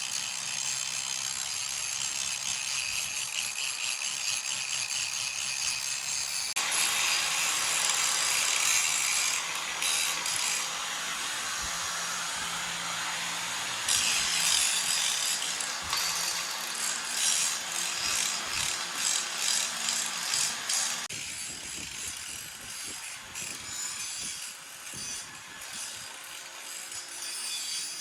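Rasping, scraping strokes of a hand tool worked against a hard surface, in several short clips, with sudden changes about 7, 14 and 21 seconds in.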